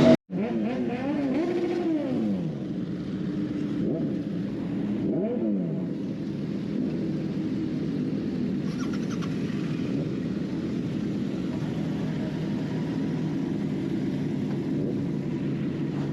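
Royal Enfield Continental GT 650 motorcycle engine under way. Its pitch rises and falls twice in the first few seconds, then it settles into a steady drone.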